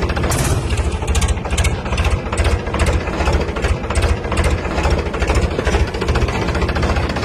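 Tractor engine idling with a steady, rapid chugging beat.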